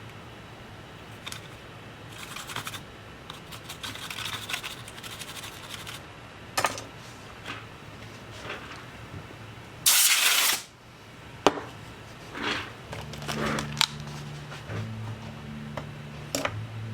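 Workbench handling sounds during laptop cleaning and repair: scattered clicks and scraping, with one short loud hiss about ten seconds in. A low steady hum switches on and off near the end.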